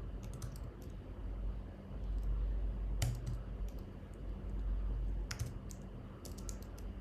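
Computer keyboard typing: scattered, irregular keystrokes, with a louder key press about three seconds in and another a little past five seconds, over a steady low hum.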